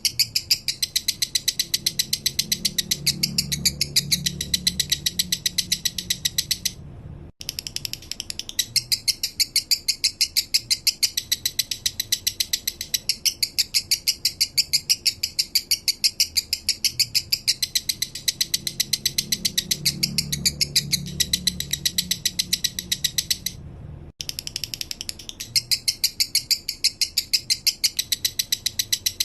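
Male lovebird singing in the slow, low 'minor' style: a long, fast chattering string of sharp high chirps. It breaks off briefly twice, about 7 s and about 24 s in.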